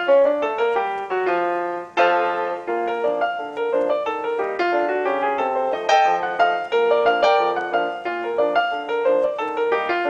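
Background piano music: a steady run of single notes and chords, each struck and fading.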